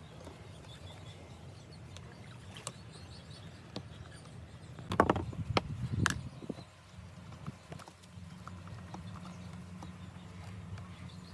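A few sharp knocks and clatters, like tools or metal parts being handled and set down, with the loudest cluster about five to six seconds in, over a steady low hum.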